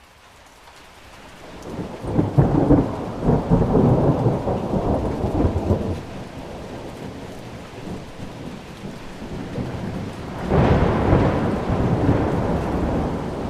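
Thunder over steady rain. A long, crackling rumble builds from about two seconds in and dies away by about six. A sudden, sharper thunderclap comes about ten seconds in and rumbles on.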